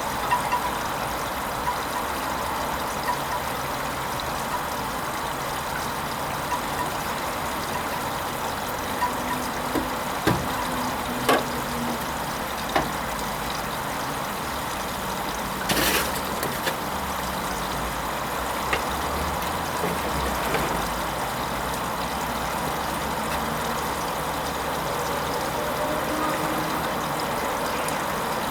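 Hoover Vision HVP16 washing machine filling with water early in its Silks 30 programme: a steady rush of inflowing water, with a few sharp clicks and a short louder rush about 16 seconds in. A low motor hum comes and goes in the second half.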